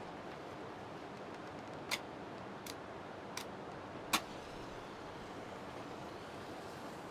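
Steady hiss of falling rain, with four sharp clicks about two, two and a half, three and a half and four seconds in, the last the loudest.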